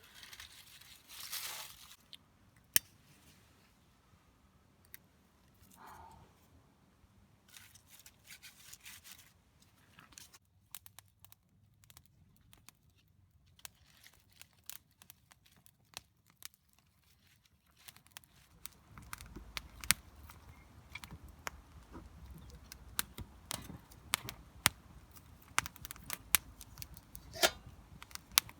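Close handling sounds: something being torn and crinkled, with scattered sharp clicks that come thicker and over a low rumble in the last third.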